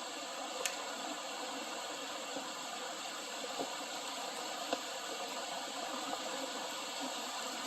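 River water rushing steadily during a controlled water release, with a few faint clicks.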